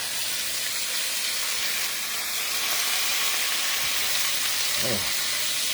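Lamb chops frying in hot oil in a pan, giving a steady sizzle.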